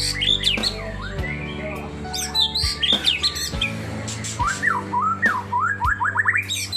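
A songbird singing loud, quick runs of rising and falling whistled notes and chirps, with background music playing underneath.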